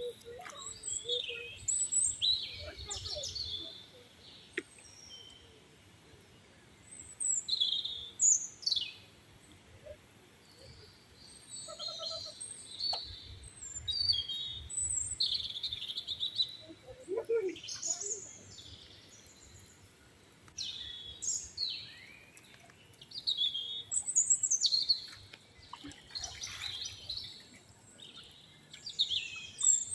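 Birds chirping and calling: short high whistled notes and quick downward-sweeping chirps, coming every second or two.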